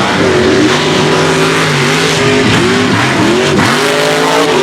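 Mega truck racing engines revving hard under full throttle, their pitch rising and falling repeatedly as the drivers work the throttle through the mud.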